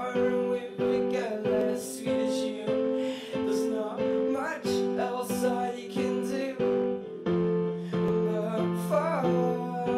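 Acoustic guitar strummed in a steady rhythm, playing sustained chords between the sung lines of the song.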